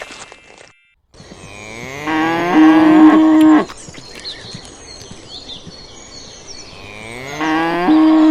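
A cow mooing twice, each long call rising in pitch and then held steady, with birds chirping faintly between the calls.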